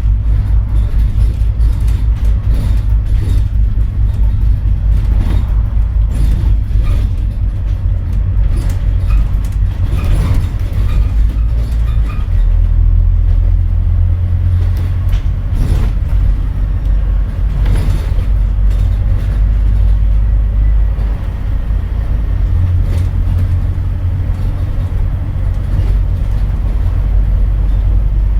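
Scania N230UD double-decker bus's diesel engine pulling hard, heard from inside the bus, with a deep drone and interior rattles throughout. The engine note changes about twelve seconds in and again a little past twenty seconds.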